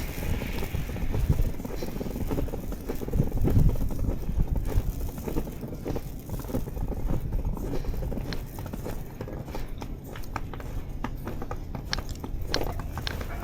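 Footsteps crunching through fresh snow, a steady run of short crunches over a low rumble, with sharper, more spaced crunches near the end.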